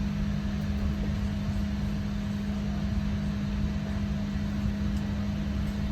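Steady cabin noise of an Airbus A350-900 airliner: an even rush of engine and air-conditioning noise with a deep rumble and a constant low hum.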